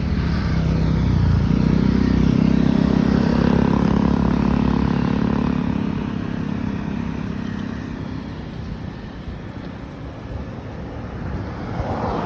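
A motor vehicle passes close by on the road, its engine swelling to its loudest a few seconds in and then fading away, over steady traffic noise.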